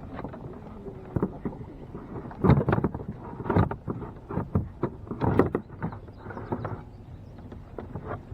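Irregular knocks and bumps on a small fishing boat as the anglers move about and handle their gear, over a low steady rumble.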